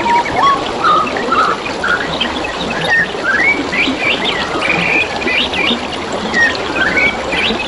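Several birds chirping and whistling in quick, short rising and falling notes over the steady trickle of flowing water.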